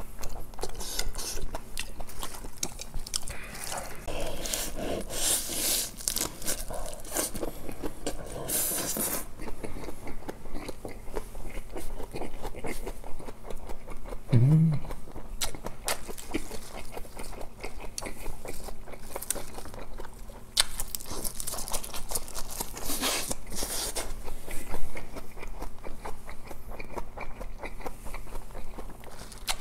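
A person chewing and eating close to the microphone: wet mouth sounds, small crunches and bites, with a brief low hum about halfway through.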